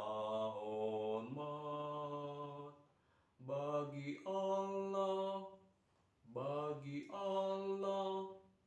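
A man's bass voice singing a cappella: long held low notes in three phrases, with short breaks between them.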